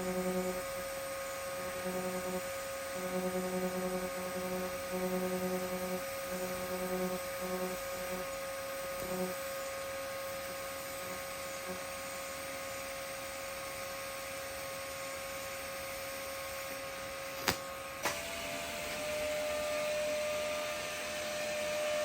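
Steady electrical hum of TIG welding during the root pass on steel pipe. A lower hum cuts in and out repeatedly in the first part. Two sharp clicks about half a second apart come near the end, and the hum's pitch then steps up slightly.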